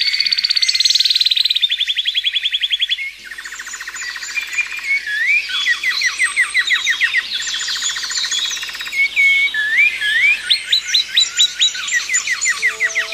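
Songbirds singing, several overlapping: fast trills and series of repeated short notes that sweep up and down in pitch.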